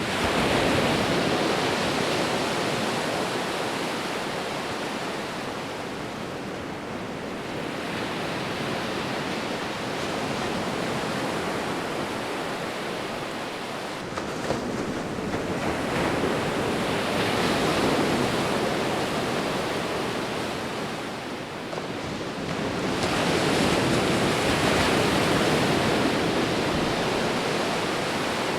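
Sea waves breaking and washing up on the shore. The surf swells and subsides in slow surges about every seven or eight seconds.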